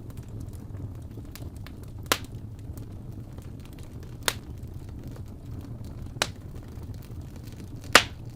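Wood fire burning in a fireplace: a steady low rumble with faint crackling, broken by four sharp pops of the burning wood, about two seconds apart, the last near the end the loudest.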